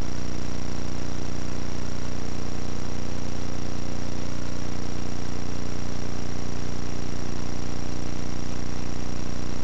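Small airplane's engine running steadily at low taxi power: a constant drone, with a thin steady high tone and a hiss above it.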